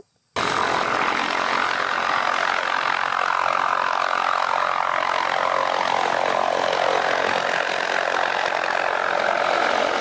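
Helicopter in flight: a loud, steady rotor and turbine noise that cuts in abruptly a moment in and holds even throughout.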